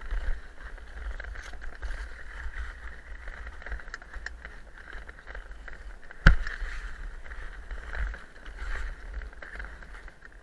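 Ice skate blades scraping and carving over a bumpy ice cross track, a steady hiss with a low rumble under it. One sharp knock about six seconds in is the loudest sound.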